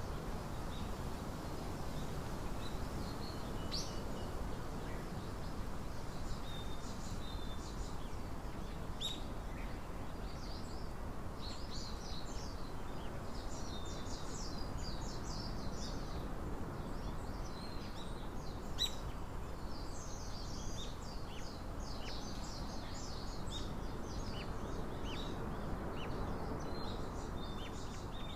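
Small birds chirping: many short, high calls scattered throughout, busiest in the middle, over a steady low background rumble.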